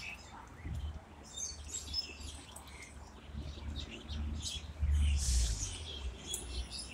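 Birds chirping in the trees, many short calls scattered throughout, over a low rumble that swells briefly about five seconds in.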